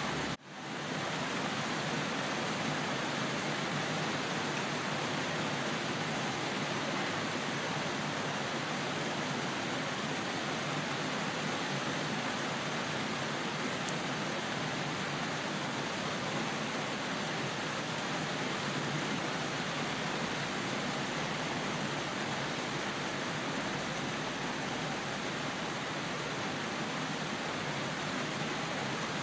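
Steady, even hiss of heavy rain, with a brief drop-out just after the start that fades back in within about half a second.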